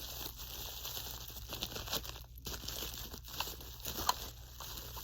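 Packaging crinkling and rustling as it is handled and pulled open, with a few sharp clicks.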